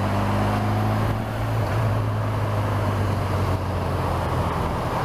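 Honda motorcycle engine running steadily at low speed in slow city traffic, a steady low hum over a haze of road and wind noise.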